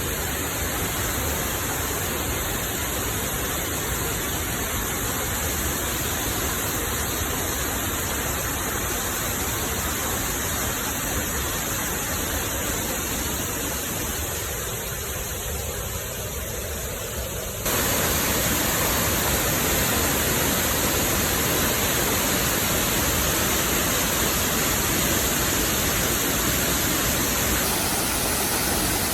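Waterfall's water rushing as a steady, even noise, which gets suddenly louder and brighter a little past halfway.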